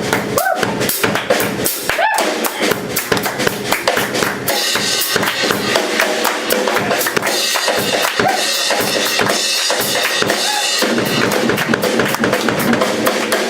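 Live band playing an instrumental passage with a busy drum kit up front, bass drum and snare hits throughout.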